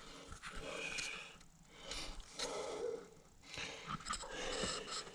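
A man breathing audibly close to the microphone: three or four soft breaths, each about a second long.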